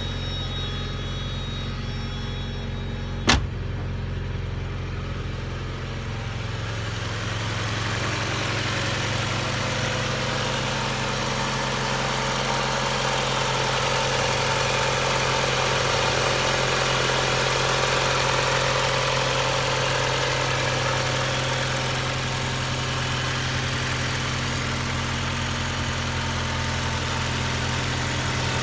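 1990 Mazda Miata's 1.6-litre four-cylinder engine idling steadily, with one sharp click about three seconds in.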